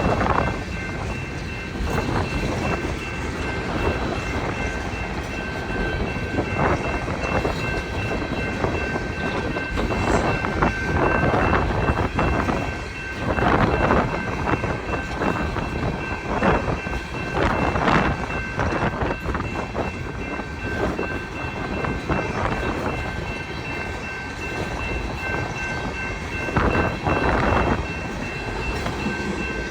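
Empty coal train's freight cars rolling past, with strong gusty wind buffeting the microphone. A steady high-pitched tone sounds over it throughout.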